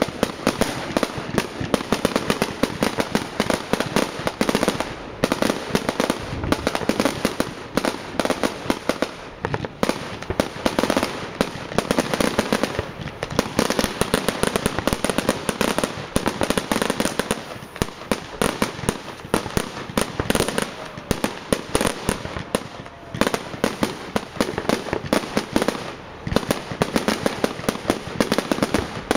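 Fireworks display: a dense, rapid barrage of firecracker bangs and crackles, many a second, easing briefly now and then.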